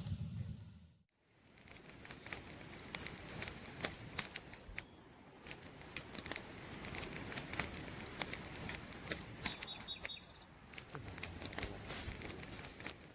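Campfire crackling: wood popping and snapping in an irregular run of sharp clicks over a soft hiss. The sound drops out briefly about a second in, and a couple of faint high chirps come a little past halfway.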